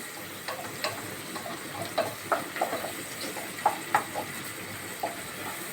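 Onions frying in hot oil in a pan: a steady sizzle with scattered small pops and crackles.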